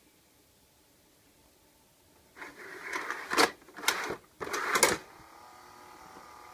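A disc caddy is slid into and pulled back out of a Hitachi VIP202P CED videodisc player's loading slot: three scraping strokes, each ending in a sharp clunk. From about five seconds in comes a faint steady whine, typical of the player's mechanism running.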